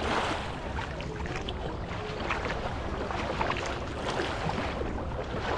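Seaside ambience: wind rumbling on the microphone over the wash of the sea, with faint scattered clicks and distant indistinct sounds.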